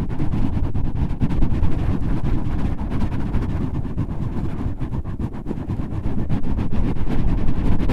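A microphone windscreen being scratched and rubbed right on the mic: a loud, dense, low scratchy rustle with fine crackles all through.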